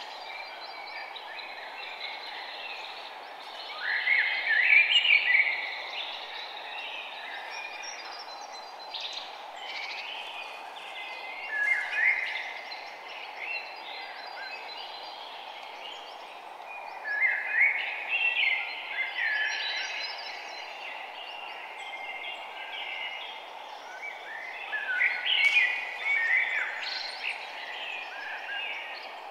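Small birds chirping and singing in short bouts, several times over, above a steady background hiss.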